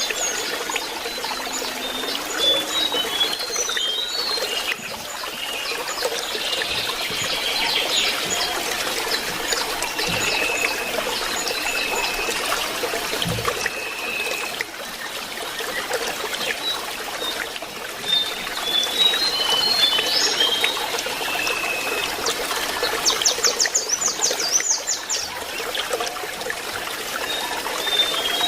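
Water trickling steadily, with a lesser shortwing singing over it. The song is made of short high notes in quick runs and long thin whistles, with a fast high trill a few seconds before the end.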